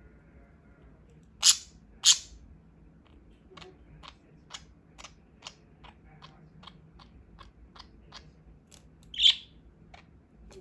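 Budgies pecking at their food: a run of small beak clicks that come faster and faster, with two louder sharp clicks about a second and a half in and another loud short sound near the end.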